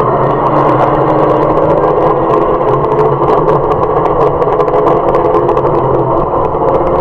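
Mazda MX-5 race car's four-cylinder engine running hard under load as the car accelerates out of a corner, heard from inside the cabin with road and wind noise.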